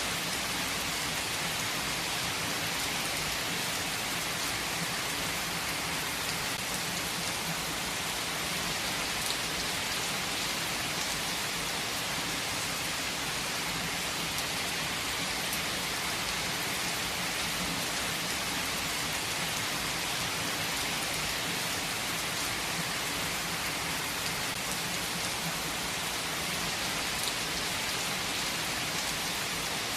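Heavy rain falling steadily, an even hiss of drops with a few faint ticks of individual drops striking a surface.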